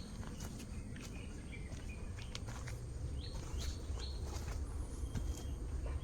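Footsteps along a jungle trail with birds calling: short bright notes, a pair of them a little past the halfway point, and small chirps before. A steady high-pitched insect drone runs underneath.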